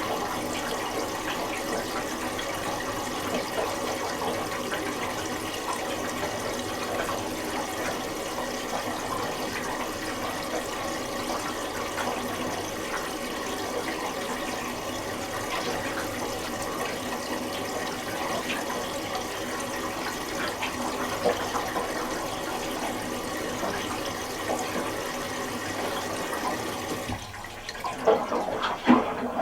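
Miele Little Giant PWM 507 commercial washing machine filling with water, a steady rush of inflowing water. Near the end the flow stops and a quick run of knocks and clunks follows.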